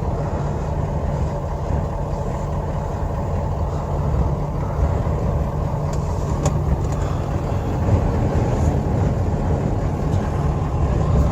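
Strong wind from a sandstorm that is dying down, a steady low rumble with a couple of faint clicks about two-thirds of the way through.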